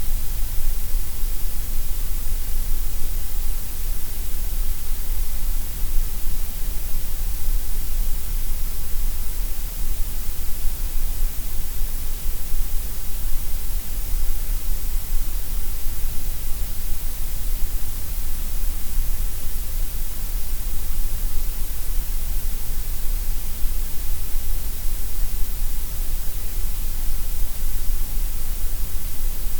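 Steady synthetic gray noise: an even, unchanging hiss spread across all pitches, with a deep low rumble and bright top.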